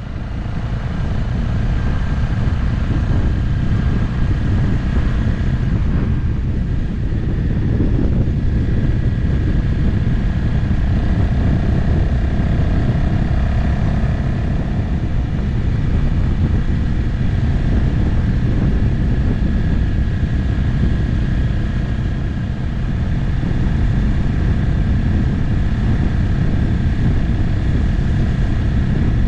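Motorcycle riding along at a steady cruise: the engine running under a heavy, steady low rush of wind and road noise, with a faint steady engine tone above it. The sound fades up over the first second or two.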